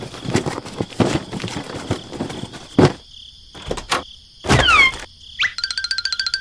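Irregular knocks and clunks, as of small hard objects being handled, over a steady high-pitched drone. A falling whistle comes about four and a half seconds in, and a rapid repeating jingle starts near the end.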